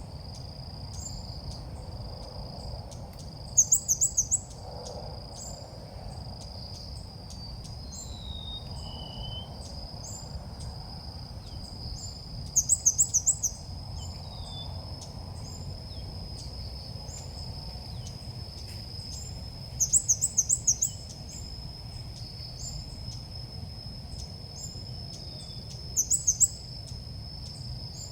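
Ốc mít bird calls of the kind played to lure the birds in: a quick run of loud high notes that comes back every seven to nine seconds, four times, between short high chirps about once a second. A steady high insect-like whine and a low rumble sit underneath.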